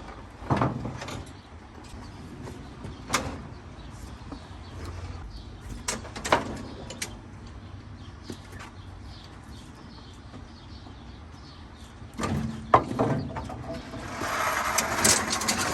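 Scattered metal clanks and knocks, then a longer scraping rush near the end, as a heavy riding garden tractor is unloaded from a truck.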